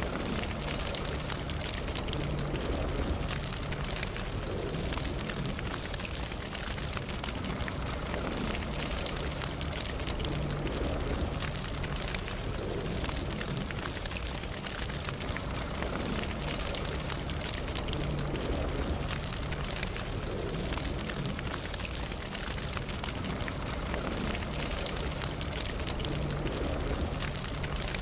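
Campfire burning: a steady low rush of flame with frequent small crackles and pops from the burning wood.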